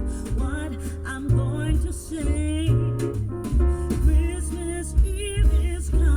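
A song played through a car audio system: a singer with vibrato over instrumental accompaniment and a strong, pulsing bass line.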